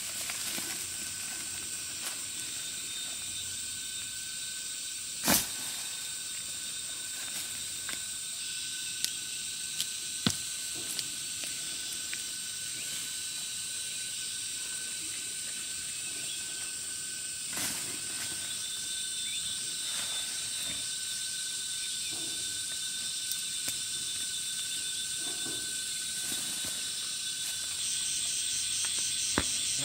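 Insects chirring steadily in a high, continuous drone, with a pulsing trill joining near the end. Scattered sharp clicks and knocks sound over it, the loudest about five seconds in.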